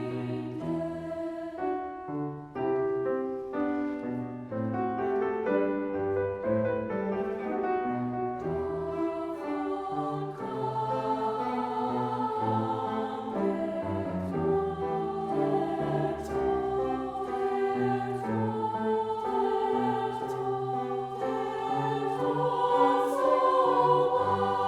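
A choir singing, with held notes that shift every half second or so, growing somewhat louder toward the end.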